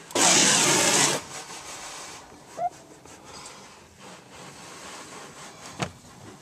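A burst of water spray from a hose, hissing loudly for about a second, then tailing off. A short squeak comes after it, and a sharp click near the end.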